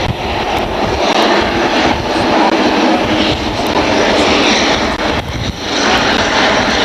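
Jet aircraft engines running: a loud, steady rush of noise.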